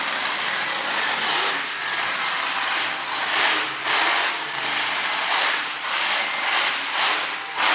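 Monster truck engine revving hard and loud, its raspy roar swelling and dropping in surges.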